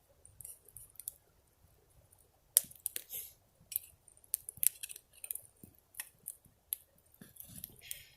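Campfire crackling: irregular sharp pops and snaps from the burning wood, the loudest about two and a half seconds in.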